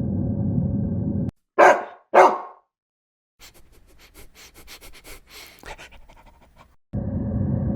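A dog barks twice, about half a second apart, followed by a few seconds of quick, quiet panting. A steady low rumble from another recording plays before the barks and comes back abruptly near the end.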